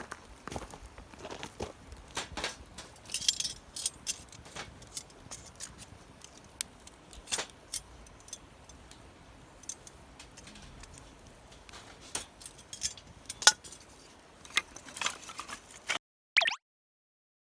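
Irregular clicks, clinks and crunches of small objects being handled, in short clusters over a quiet background. Near the end the sound cuts to dead silence and a brief gliding sound effect plays.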